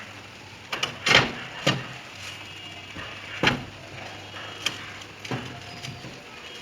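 Irregular knocks and thumps of work on a metal sheet roof, the loudest about a second in and another near the middle.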